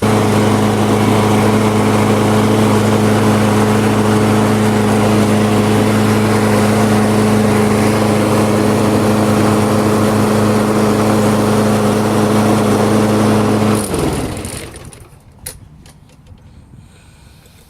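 Walk-behind lawn mower's small gasoline engine running loud and steady close by, then shut off about fourteen seconds in and winding down to a stop.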